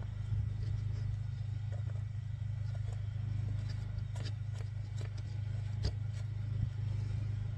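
A steady low mechanical hum, with a few faint light clicks and taps scattered through it.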